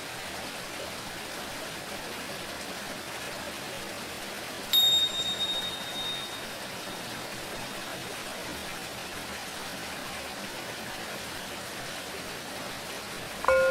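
Steady hiss of running water throughout. About five seconds in, a pair of tingsha cymbals is struck once and rings at a single high pitch, fading over a second or two. Near the end, a Tibetan singing bowl is struck and rings with several lower tones.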